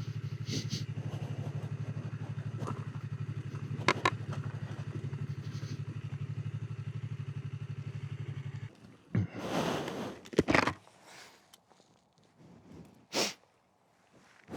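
Sportbike engine idling with a steady rapid pulse, then switched off about eight and a half seconds in. A few short scuffs and knocks follow.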